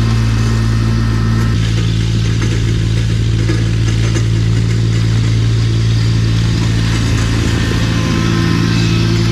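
Engine of a cabless machine running steadily at a constant speed, with a low, even hum.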